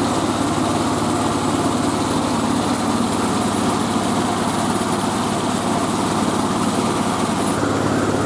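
Engine-driven mobile rice-milling machine running steadily, with an even mechanical drone and no change in speed.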